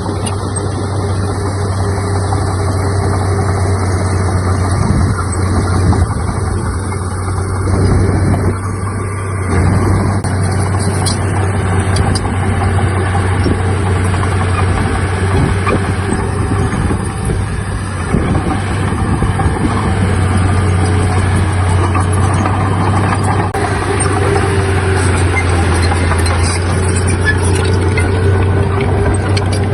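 Heavy diesel machinery running: a steady, loud engine drone with scattered clanks and knocks.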